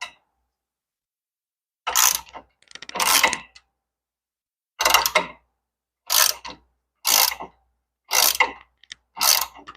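Hand ratchet clicking in seven short bursts, about one a second, starting two seconds in, as it runs in the hub assembly's mounting bolts.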